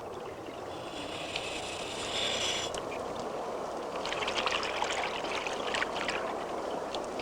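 Sea water sloshing and trickling in a steady wash, with faint crackling spatters in the second half.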